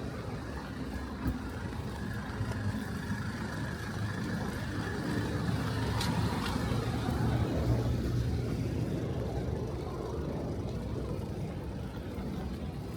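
Road traffic passing on a city street: a low engine and tyre rumble that builds to a peak in the middle and eases off near the end.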